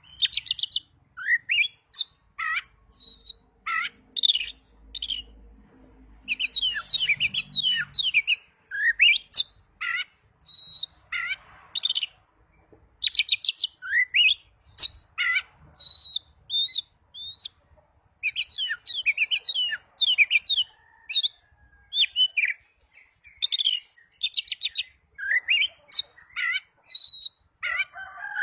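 Oriental magpie-robin (kacer) singing a rapid, varied song of short whistled notes, trills, and rising and falling phrases, broken by brief pauses.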